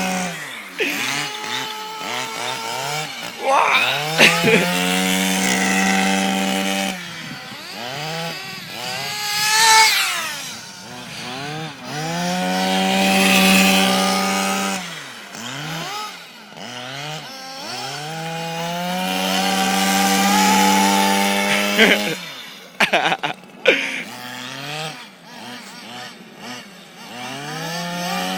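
Small nitro glow engines of radio-controlled cars revving, their high buzzing pitch repeatedly climbing, holding at full throttle and dropping back. A few sharp knocks come close together about 23 seconds in.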